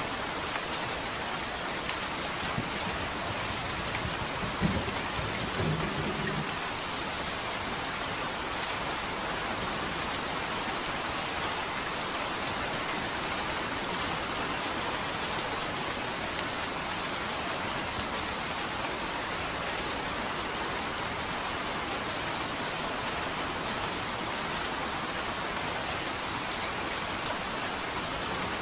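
Steady rain falling, an even hiss of drops, with a brief low rumble of distant thunder about five seconds in.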